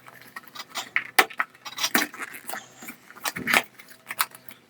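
A sealed retail box being opened and its packaging handled: a string of irregular rustles, scrapes and small clicks.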